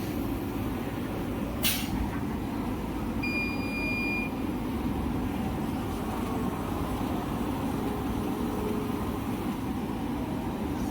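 Toilet-paper roll cutting machine running with a steady mechanical hum. A single sharp click comes just under two seconds in, and a short high beep follows about a second later.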